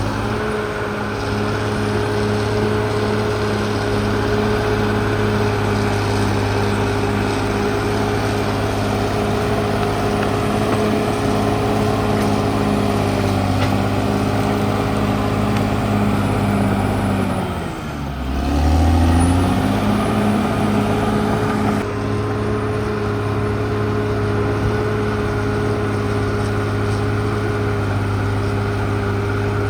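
Diesel engine of a CAT D6R XL bulldozer running steadily at high revs. About two-thirds of the way through, the revs drop sharply and climb back, and they fall again near the end.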